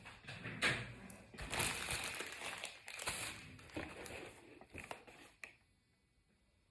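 Colouring strokes scratching and rubbing quickly and irregularly across paper, stopping about five and a half seconds in.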